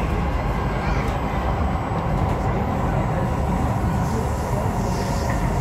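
Kawasaki Heavy Industries / Nippon Sharyo C751B electric train running on its rails, heard from inside the passenger car as a steady, even rumble.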